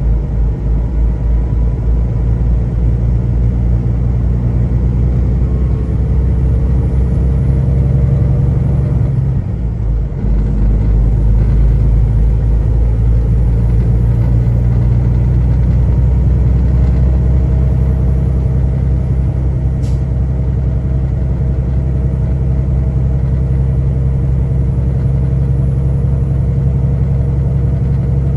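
Semi-truck engine running steadily under way, a low drone with a brief dip about ten seconds in before it picks up again.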